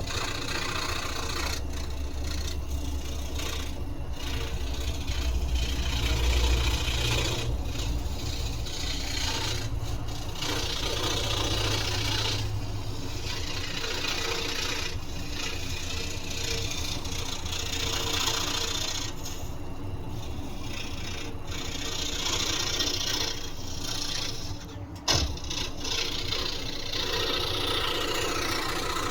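Scroll saw cutting wood: a steady rasping from the blade over the low hum of the motor, rising and falling as the cut goes on. Near the end it briefly dips, followed by a sharp click.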